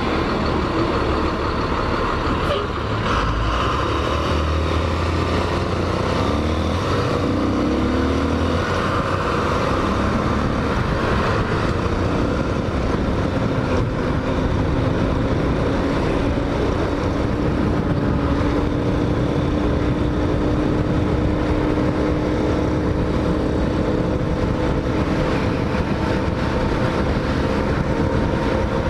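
Hawk 250 motorcycle's single-cylinder engine running under way, over a steady rush of wind and road noise. The engine's pitch rises and falls a few seconds in, then holds fairly steady.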